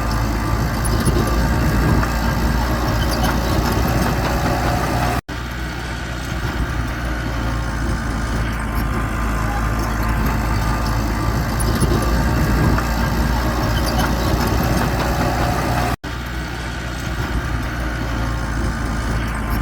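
Bulldozer's diesel engine running steadily under work. The sound drops out for an instant twice, about five and sixteen seconds in.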